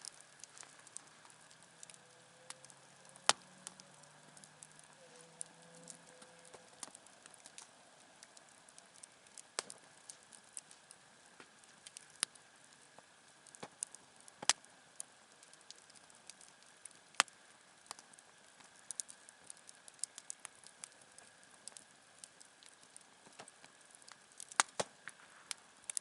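Wood campfire crackling quietly, with irregular sharp pops every second or so and a handful of much louder snaps.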